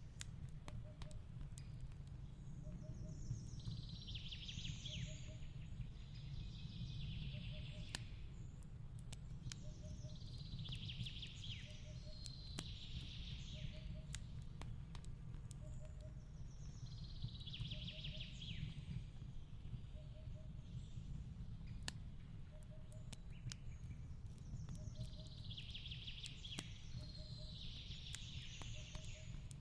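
Fireplace crackling, with scattered sharp pops over a low steady rumble, layered with bird song: a descending phrase repeats about every six to seven seconds. A faint short low note also repeats about every second and a half.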